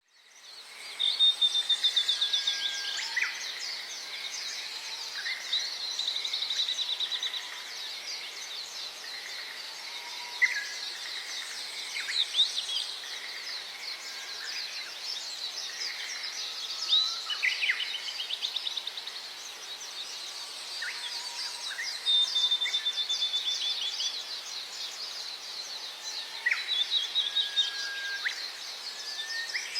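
Several songbirds singing and calling at once: rapid trills and short chirps overlapping continuously over a faint background hiss.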